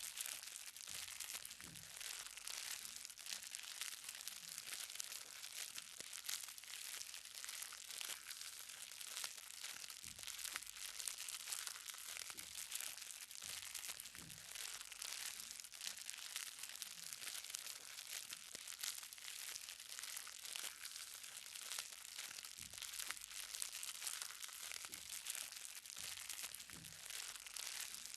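Light rain falling on the ground: a steady crackling patter of many small drops, with short, heavier drips every second or two.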